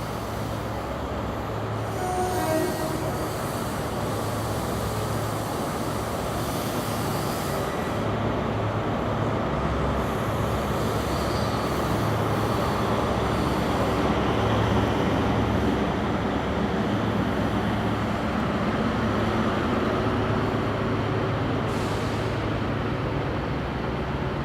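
Train moving along a station platform: a steady rumble of wheels on rail with a low hum, swelling a little midway and easing slightly near the end.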